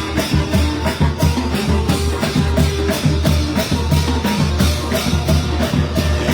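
A Thai brass band (trae wong) playing a lively march with a steady, quick drum beat under the horns.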